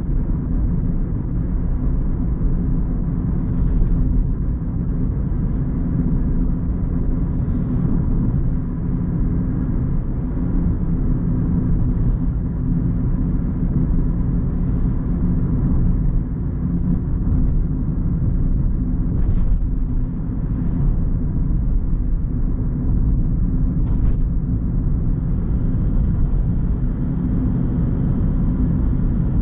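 A car being driven at a steady pace, giving a steady low rumble of engine and road noise. A few faint short clicks are heard now and then.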